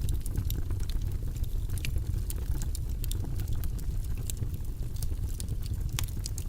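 Steady low rumbling background noise, with scattered light clicks and ticks several times a second.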